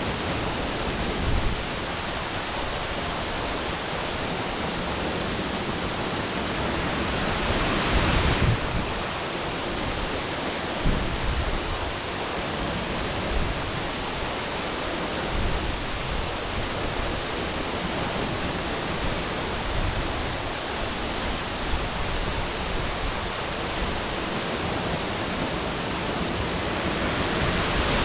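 Steady rush of a 15-metre waterfall plunging into its pool, an even roar of falling water, swelling briefly about eight seconds in.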